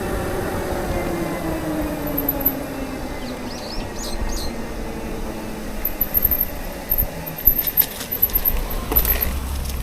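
A motor vehicle going by, its engine note falling slowly over the first few seconds, then a scatter of sharp clicks near the end.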